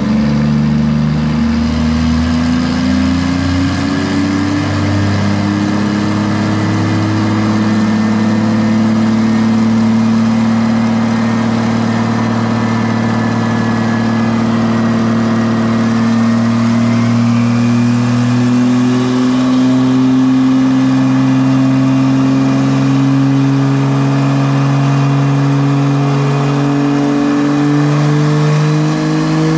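Turbocharged Jeep Cherokee XJ engine running on a chassis dyno, loud and steady, its pitch climbing slowly and evenly as the revs build over about half a minute.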